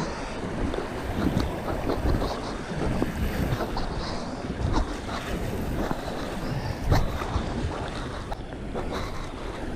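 Wind and water noise on an action camera, broken by frequent scratching and knocks from a life jacket rubbing against the camera. The sharpest knock comes about seven seconds in.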